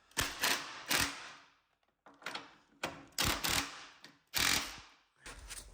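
Hand tools working on suspension bolts: a series of short, sharp metallic clicks and clanks, about eight in all, each fading quickly, with short pauses between.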